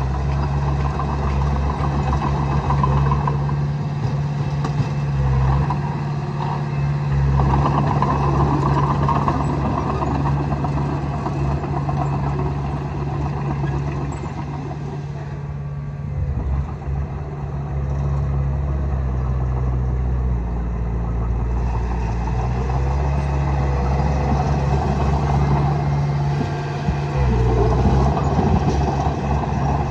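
Heavy diesel engine of earth-moving machinery running continuously, its level swelling and easing as the load changes, with a short lull about halfway through.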